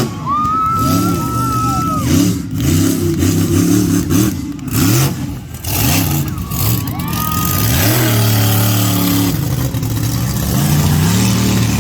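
Monster truck engine revving hard in repeated bursts, its pitch rising and falling, then holding a steadier note about eight seconds in. A high whistling tone sounds over the engine in the first two seconds.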